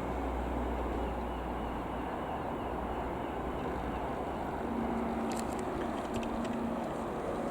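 Steady engine drone with a low hum. A higher steady tone joins about halfway through, and a few faint clicks come near the end.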